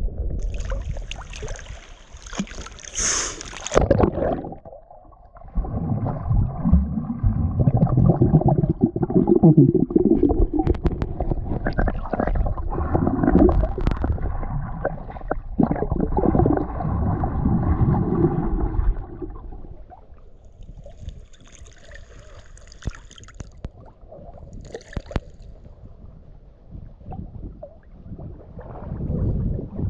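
Water sloshing and gurgling close by, muffled and heavy in the low end, loudest through the middle and easing off after about twenty seconds.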